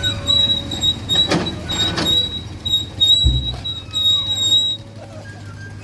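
Heavy machinery: a steady high metallic squeal over a low engine hum, with two sharp clanks about a second and a half in and a low thud about three seconds in. The squeal drops away near the end.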